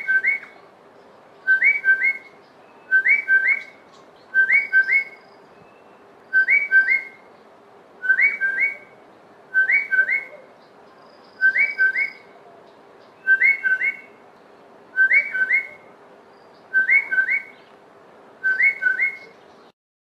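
Southern boubou calling: a pair of clear whistled notes, repeated twelve times at an even pace of about one pair every one and a half to two seconds.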